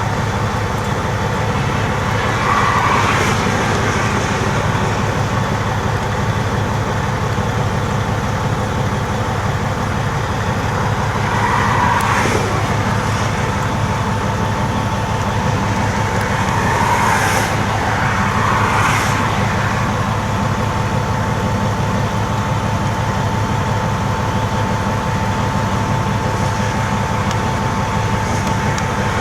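Large diesel truck engine idling steadily with a low hum, with a few brief swells of passing noise over it and a thin steady whine that comes in about halfway through.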